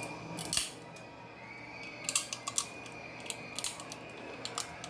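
Snow crab leg shells cracking and snapping close to the microphone as they are broken open and eaten: a scatter of sharp clicks and snaps, bunched about two seconds in.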